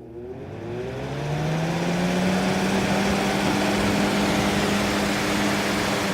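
2018 Lasko box fan's motor spinning up to its high setting: a hum that rises in pitch over the first second and a half, then holds steady over a loud rush of air from the blades.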